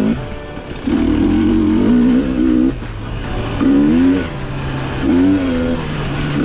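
Dirt bike engine revving up and down: its pitch swells and drops back several times as the throttle is opened and closed.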